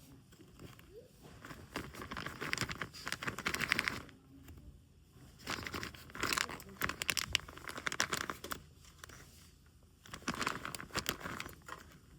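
Crinkling and rustling, like packaging being handled, in three bursts of a few seconds each with quieter pauses between.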